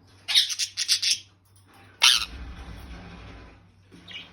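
Indian ringneck parakeet screeching: a quick run of shrill, harsh squawks in the first second, then one more sharp squawk about two seconds in.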